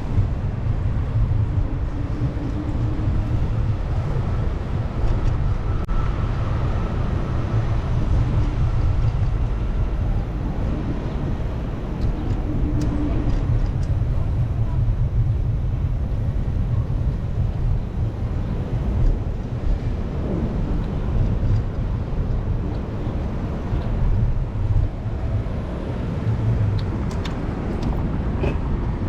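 Steady low rumble of wind buffeting the microphone on a moving bicycle, with city street traffic underneath.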